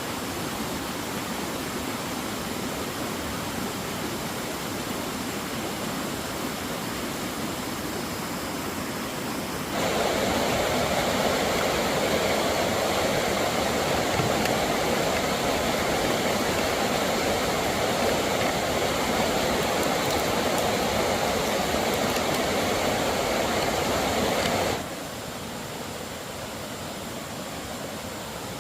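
Steady rushing water noise. About ten seconds in it steps abruptly louder and brighter, and about 25 seconds in it drops back to a quieter level.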